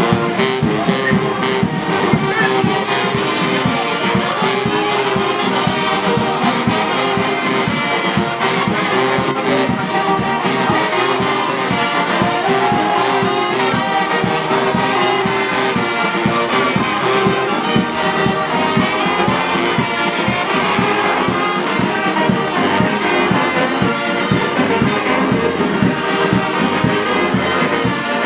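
Brass band music playing steadily, with trombones and trumpets.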